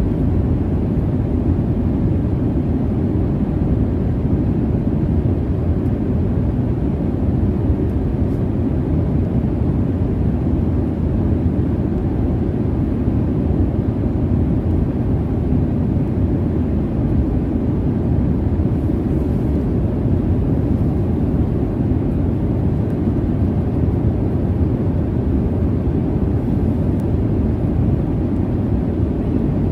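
Steady low jet engine and airflow rumble inside an airliner cabin in cruise, a constant deep noise without changes.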